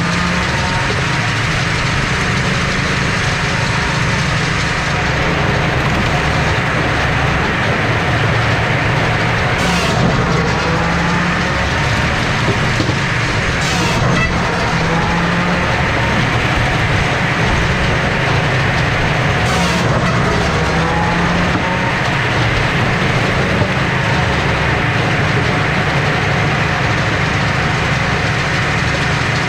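Eastonmade 48C firewood processor running steadily as wood is fed through it, its engine and hydraulics working, with a few brief sharp knocks.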